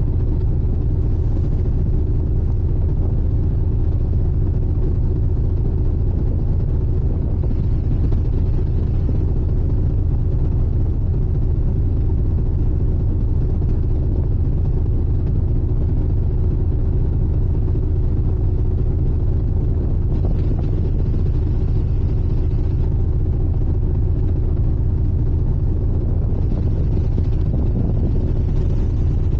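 Sightseeing icebreaker's engines running steadily: a continuous low rumble with a steady hum above it.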